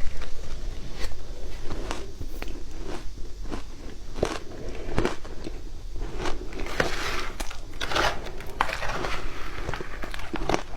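Ice made with matcha being bitten and chewed close to the microphone: irregular sharp cracks, with a denser stretch of crunching a little past the middle.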